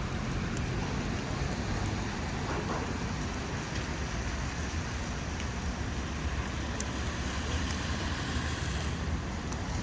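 Heavy rain falling steadily, with a low rumble underneath and the odd sharper drop tick.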